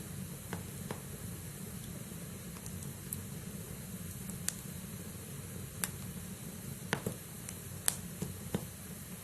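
Log fire burning in a fireplace: a steady low rush of flames with scattered sharp crackles and pops from the burning wood, the loudest pops near the end.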